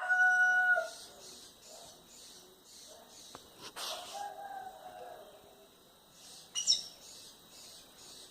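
Birds calling at dawn. A loud held note fills the first second, followed by faint, evenly repeated high chirping, a fainter drawn-out note midway, and one sharp high call about two-thirds of the way through.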